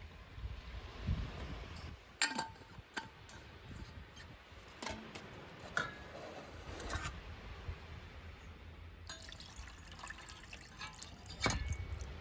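Liquid sounds from camp cooking, water pouring and dripping, with a few light clinks of cookware.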